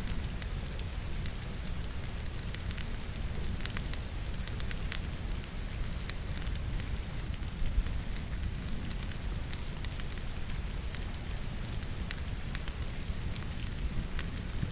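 Wood logs burning in a fireplace, crackling with many small sharp pops and snaps, one louder pop a little past the middle. Steady rain runs underneath.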